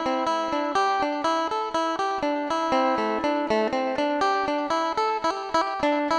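Isan phin, the Thai plucked lute, playing a lively tune: a quick, even run of plucked notes over a steady held drone note.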